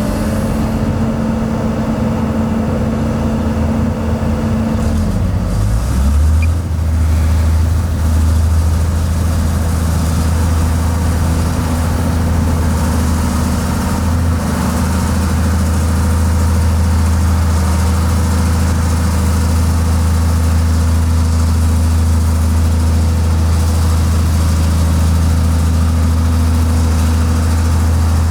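Heavy diesel engine of earthmoving or haulage machinery running steadily; about five seconds in its note drops and changes, then it holds an even, deep drone.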